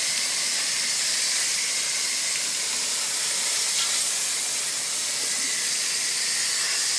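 Steady hiss of a water spray washing down an air conditioner condenser's coil fins, knocking the caked dirt off the coil.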